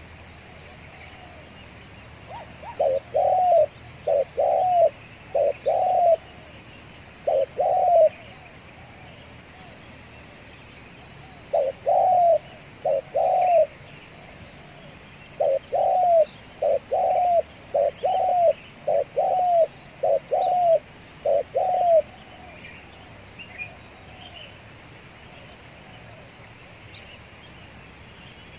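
Spotted dove (tekukur) cooing: low, repeated coo notes in two bouts, the second longer, about ten seconds in.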